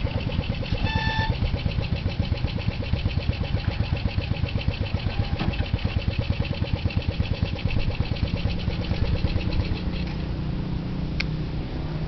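Petrol hoist engine running with a fast, even pulsing beat; about ten seconds in its note changes and the pulsing becomes smoother.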